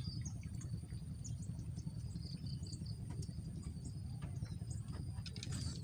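Small birds chirping, many short high calls scattered through, over a steady low rumble and a thin, steady high whine.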